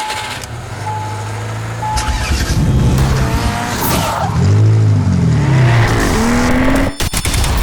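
Three short beeps about a second apart, then a car engine revving, its pitch rising and falling several times, over music.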